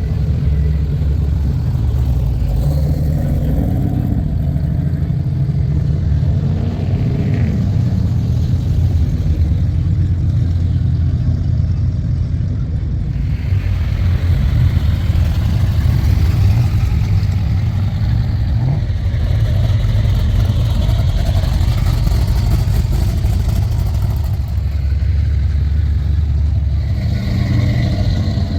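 Car engines running at a hot rod and classic car show, a steady low sound with no break.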